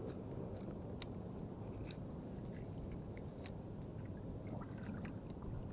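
Steady low wind-and-water noise on a small traditional canoe at sea, with a few faint, scattered clicks.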